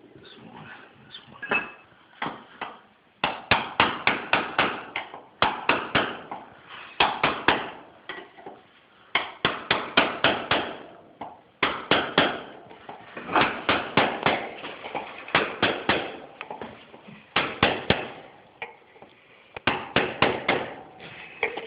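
Hammer tapping a caulking iron to pack a poured lead joint into a cast iron hub, in quick runs of sharp strikes, several a second, with short pauses between runs.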